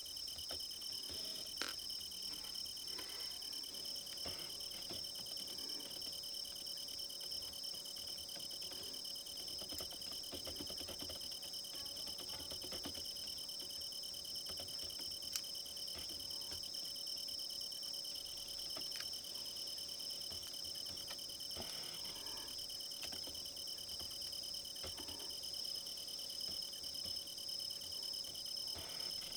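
A steady chorus of crickets chirping, with a few faint sharp clicks over it.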